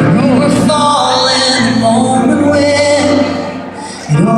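Live country band music, with sustained pitched instruments. It drops away briefly near the end, then comes back in full.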